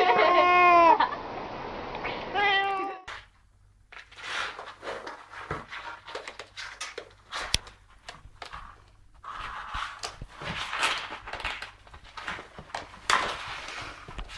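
A cat meowing in long calls that waver in pitch, with one more shorter meow just under three seconds in. After that come quieter scattered clicks and rustling.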